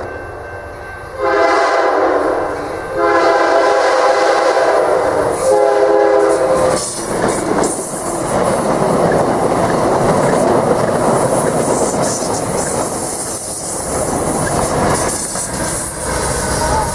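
Amtrak passenger train sounding its multi-note horn in several long blasts, then rushing past at speed with a steady roar of wheels on rail.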